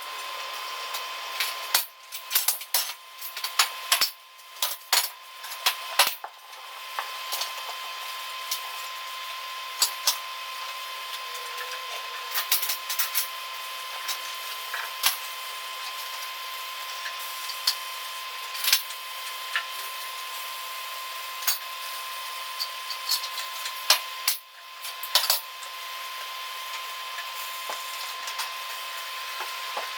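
Metal fabrication shop noise: a steady machine hum with a constant whine, broken by many irregular sharp metallic clicks and knocks. The clicks come thickest in the first few seconds and again a little before the end.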